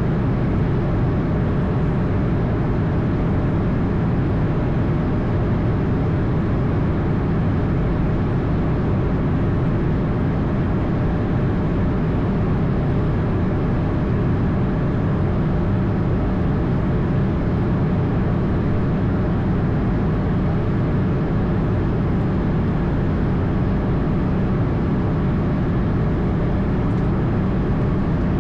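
Steady drone of an Airbus A220's Pratt & Whitney PW1500G geared turbofan engines, heard from inside the aircraft, with a faint steady whine above the low rumble.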